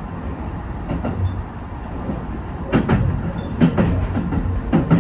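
Train running on the line, a steady rumble with wheels clacking over rail joints, several sharp knocks in the second half.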